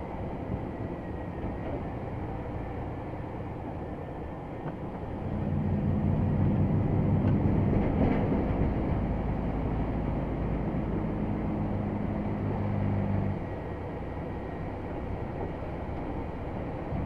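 Diesel engine of a Scania XT G500 8x8 truck loaded with about 50 tonnes, running steadily. About five seconds in it pulls harder and louder for some eight seconds, then eases back.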